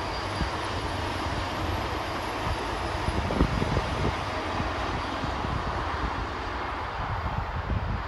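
A GWR bi-mode Intercity Express Train passing under diesel power, a steady rush of underfloor engine and wheel-on-rail noise with an uneven low rumble.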